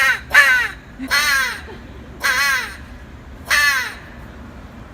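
Imitation crow caws from a person's crow call: five loud, harsh caws, each falling in pitch, the middle ones drawn out, then they stop about a second before the end.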